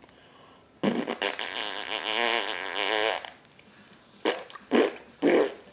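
Baby blowing raspberries, the 'fart noises' he makes with his lips. There is one long buzzing lip trill of about two and a half seconds with a wavering pitch, then three short ones near the end.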